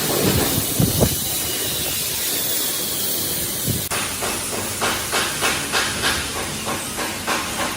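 Workshop noise: a steady hiss with a few knocks early, then from about halfway rhythmic strokes about three a second.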